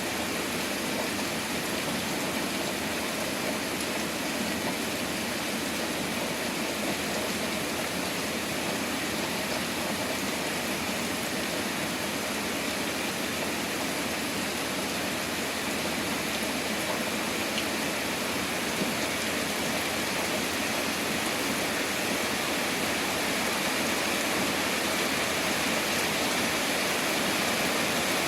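Steady downpour of heavy rain during a thunderstorm, an even hiss that grows slightly louder near the end.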